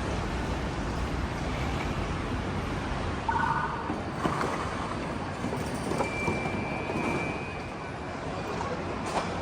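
Steady rumbling noise of a vehicle in motion, with a few short clicks and a brief high tone about two-thirds of the way through.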